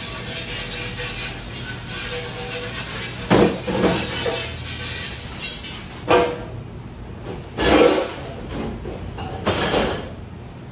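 Dishwashing work: a steady rushing noise, like running water or a machine, cuts off about six seconds in, while hard objects knock and clatter about five times.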